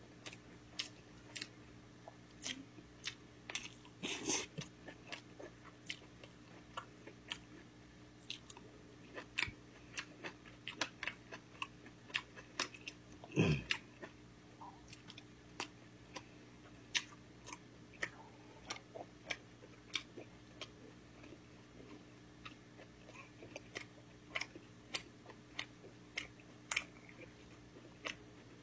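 Close-miked chewing of Korean pork-bone soup (gamjatang): many short wet mouth clicks and smacks, irregular, a few a second. There is a louder, longer mouth noise about halfway through.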